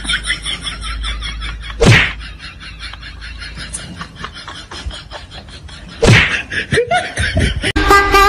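Two loud sudden smacks, about two seconds in and about six seconds in, over faint laughter; music starts near the end.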